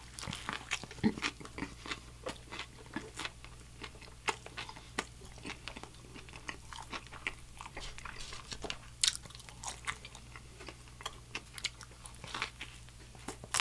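Close-up eating sounds of a Nashville hot fried chicken sandwich: a bite through the crispy breaded chicken and bun, then chewing full of crisp crunches and wet mouth clicks, and another bite near the end.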